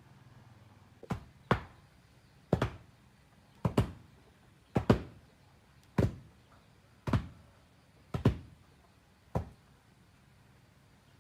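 Repeated knocks struck by hand at an even pace, about one blow a little over every second, several landing as quick double knocks, as in hammering or chopping during building work.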